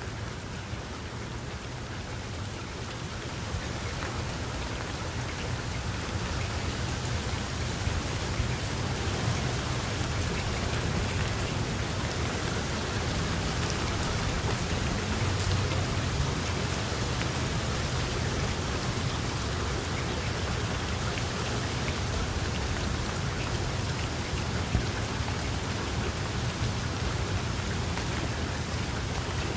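Steady rain falling, a dense even hiss with scattered drop ticks, over a continuous low rumble. It grows slightly louder over the first several seconds, then holds steady.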